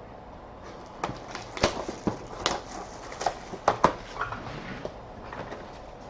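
Trading card boxes and packaging being handled on a table: a scatter of sharp taps and clicks, the strongest bunched between about one and four seconds in.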